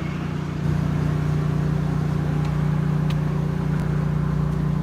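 The engine of an 8 GPM, 3,500 PSI pressure washer running steadily. It gets louder about half a second in and holds there, with a few light clicks over it.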